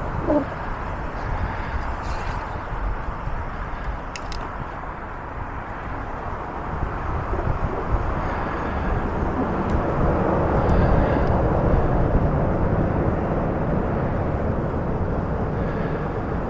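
Steady wind rush and tyre noise from riding a bicycle, heaviest in the low end and growing a little louder past the middle of the stretch.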